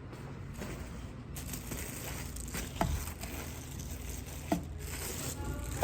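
Rain falling, a steady hiss that grows fuller a little over a second in, with two brief sharp sounds near the middle.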